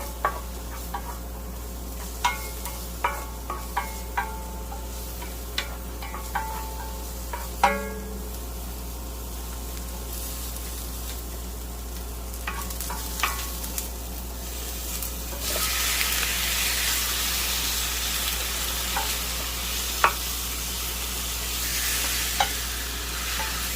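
Onion and garlic frying in oil in a pan, with a utensil stirring and knocking against the pan in a series of sharp clicks that ring briefly during the first several seconds. The sizzling grows louder and hissier about two-thirds of the way through.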